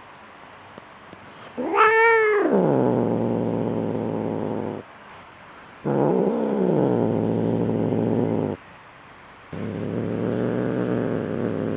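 Cats caterwauling in a fight: three long drawn-out yowls with short pauses between them. Each yowl wails up and down in pitch, then sinks into a low, held growl-like moan.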